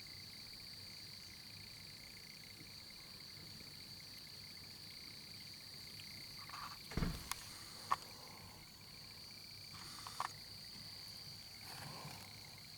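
Steady high-pitched chorus of night insects calling without a break, with a few brief knocks and rustles about seven, eight and ten seconds in.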